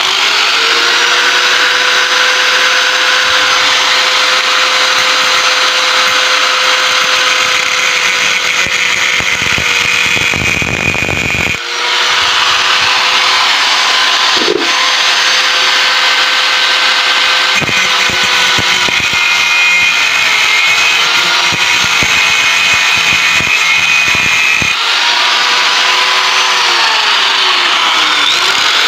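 Angle grinder cutting through the steel shell of a refrigerator compressor along its middle seam: a steady high motor whine over a harsh grinding hiss. It dips briefly about twelve seconds in, and its pitch sags for a moment near the end.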